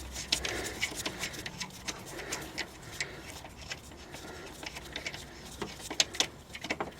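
Socket ratchet clicking in short, uneven runs of ticks while a transmission mount bolt is turned out.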